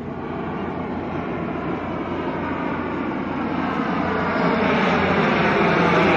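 P-3 patrol aircraft's four turboprop engines running as it flies in, the propeller drone growing steadily louder.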